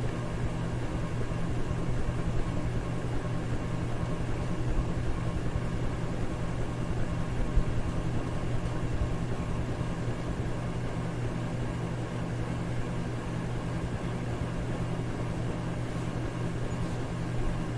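Electric fan running steadily: a continuous whoosh of moving air over a low motor hum, with no change.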